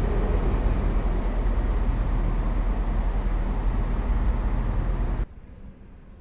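A train running through the station, a steady low rumble that cuts off abruptly about five seconds in, leaving quieter outdoor background.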